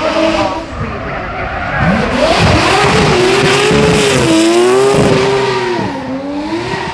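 A high-performance car engine revving hard, its pitch swinging up and down several times, over a broad hiss of tyre noise.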